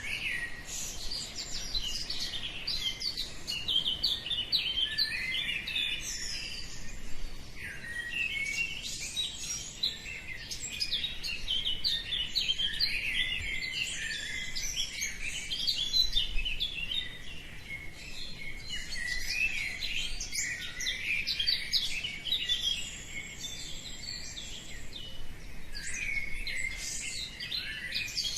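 Many small birds singing and chirping at once in a dense dawn chorus, the calls overlapping continuously.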